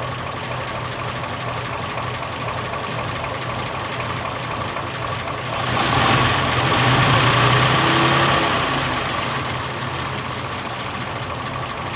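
1926 Oakland's engine idling steadily, running off its own vacuum-tank and gravity-fed fuel system. About halfway through it gets louder, with a rush of hiss, then eases back.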